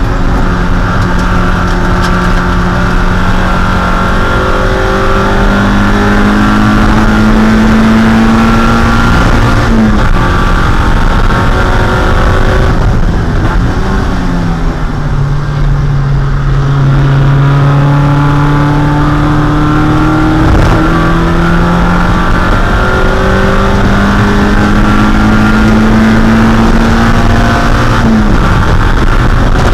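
1.6-litre Mazda Miata four-cylinder race engine running hard at high revs, heard from inside the car, its pitch climbing slowly under throttle. The pitch drops abruptly about ten seconds in and again near the end, like gear changes, and there is a lower, slightly quieter stretch in the middle before the revs climb again.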